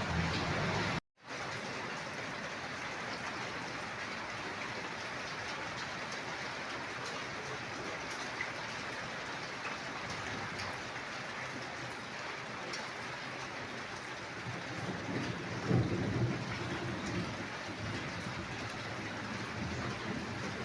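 Steady heavy rain falling and splashing on hard surfaces, with a low rumble swelling about fifteen seconds in.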